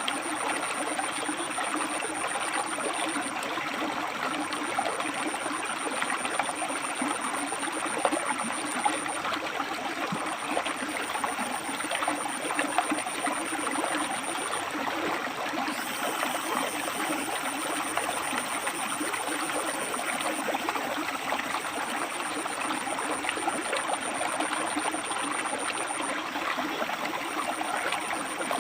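River water rushing and splashing over and between rocks: a steady, even flow with small irregular splashes.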